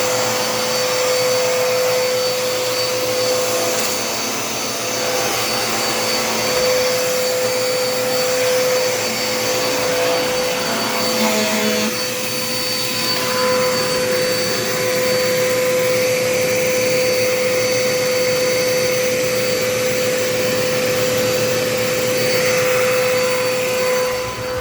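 Dirt Devil Endura Reach upright vacuum cleaner running steadily while vacuuming: the rush of air with a steady motor tone over it.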